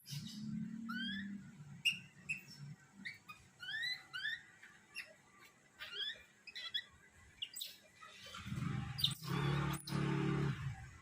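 Small animals calling in short, high-pitched rising chirps, repeated many times at an uneven pace. A low steady hum sits under them at the start and grows louder for a couple of seconds near the end.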